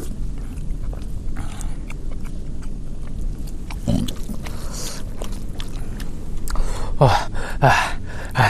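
Close-up eating sounds of people eating mutton curry and rice with their hands: chewing and small wet clicks and smacks. A few short cries that fall in pitch stand out, one about four seconds in and three near the end.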